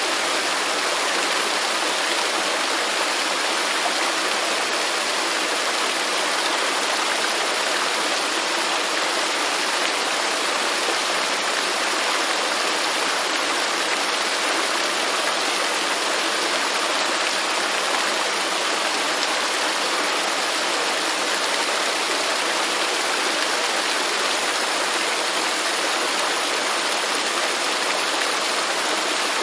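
Waterfall: a steady, even rush of falling water, unchanging throughout, with no distinct splashes or other events.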